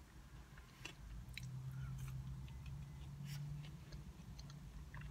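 Faint close-up chewing of food, with small scattered mouth clicks, and a low steady hum through the middle of it.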